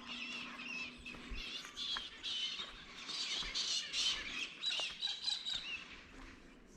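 A flock of parrots squawking and chattering, with many overlapping short calls.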